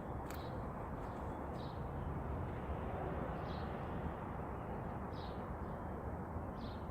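Steady outdoor background noise with a bird giving a short high chirp about every one and a half to two seconds.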